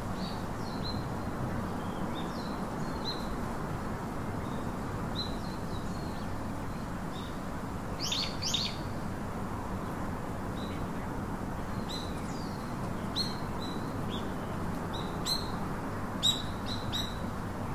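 Small birds chirping in short, high, repeated calls over a steady background of outdoor noise. A louder pair of chirps comes about eight seconds in, and several louder chirps come near the end.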